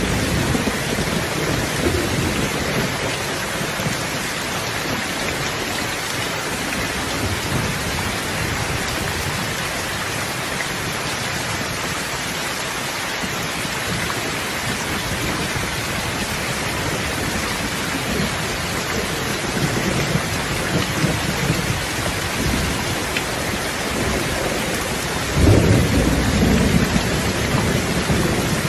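Steady heavy rain falling, with thunder rumbling low underneath; a louder roll of thunder comes in about 25 seconds in.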